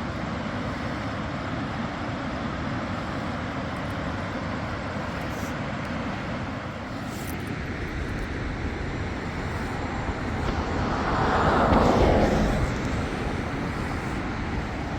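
Steady rushing of water pouring over a dam, described as really loud. A louder whoosh swells and fades about ten to thirteen seconds in.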